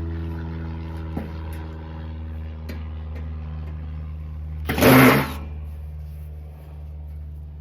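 Electric drill driving a screw, with a short loud burst of whirring about five seconds in over a steady low hum and a few light clicks.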